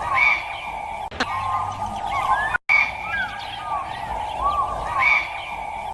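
Many birds calling together: a chorus of short arching, whistled chirps over a steady chattering background. The sound drops out for a moment about halfway through.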